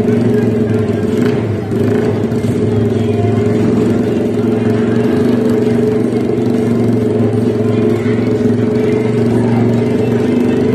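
Small motorcycle engine running loud and steady through a large aftermarket exhaust, held at a constant pitch.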